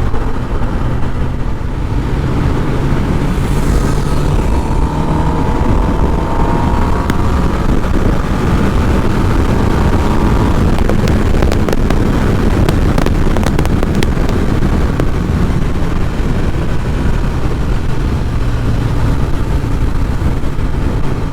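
Kawasaki sport motorcycles riding on the road: steady engine drone under a rush of wind and road noise. Engine pitch climbs a few times in the first half as the bikes accelerate, and there are a few sharp ticks around the middle.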